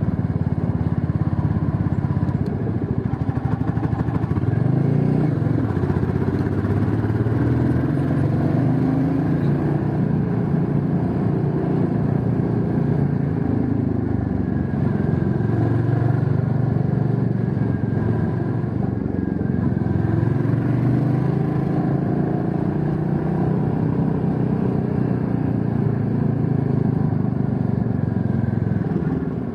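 Motorcycle engine running while riding, its pitch rising and falling several times as it speeds up and slows down, over steady road and wind noise.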